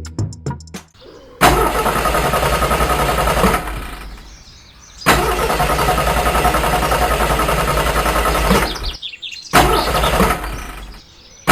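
An engine running in three spells of a few seconds each, each starting abruptly and cutting off, the middle one the longest.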